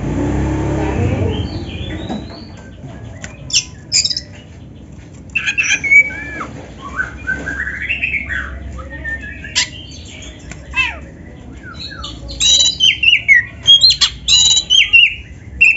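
Black-breasted Oriental magpie-robin (kacer) singing, its song filled with canary-like phrases. Scattered whistled phrases with rising and falling glides give way near the end to a fast, loud run of sharp repeated notes. A low rumble is heard in the first two seconds.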